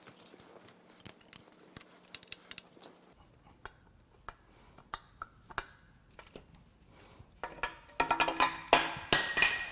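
Scattered metallic clinks and knocks of steel engine parts and tools being handled on the engine stand, building about eight seconds in to a louder, denser clatter of parts with some ringing.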